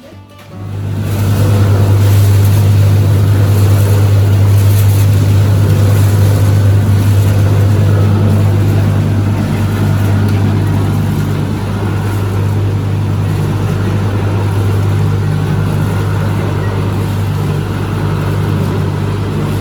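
A motor running steadily with a loud, deep hum, starting up under a second in.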